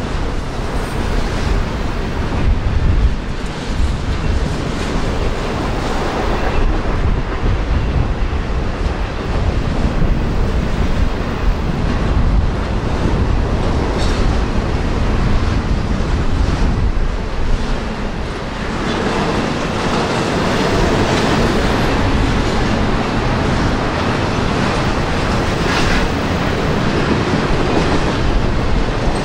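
Freight train rolling past: a steady rumble and rattle of the cars, with wheels clacking over rail joints. The sound grows hissier about two-thirds of the way through.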